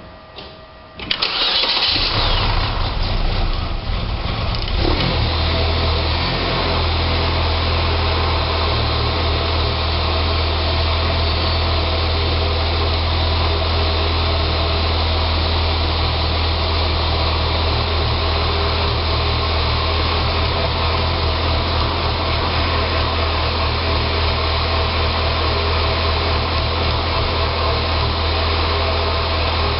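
2006 Saab 9-3 2.0T's turbocharged four-cylinder engine starting about a second in, then settling into an idle. The idle is rough after an engine rebuild, which the owner thinks is possibly a vacuum problem.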